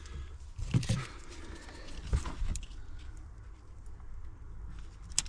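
Scattered knocks and clunks of hands working at the car's gear knob and centre-console trim, with a sharp click near the end.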